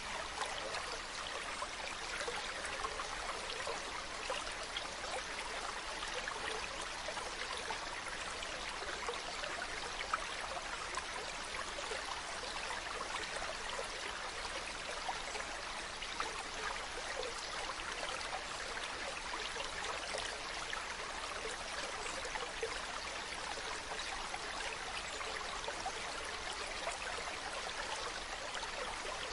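Mountain stream running: a steady, unbroken babble of flowing water.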